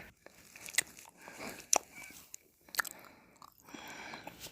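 Close-miked mouth sounds of eating ice cream: wet smacks and licks, with a few sharp clicks about a second apart.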